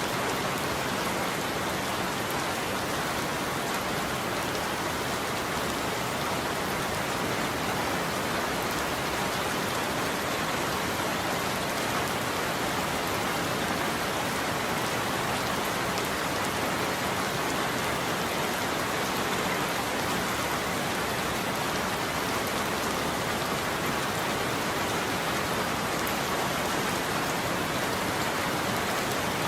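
Heavy rain falling steadily on a surface, an even hiss of many drops with no thunder in it.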